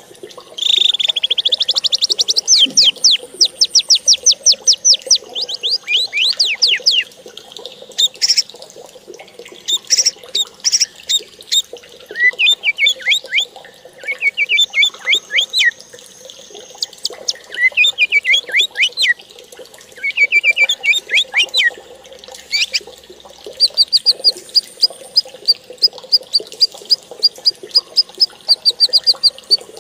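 Bird song: loud runs of rapid, high, quickly falling chirps, phrase after phrase with short pauses between, ending in a long even series of notes.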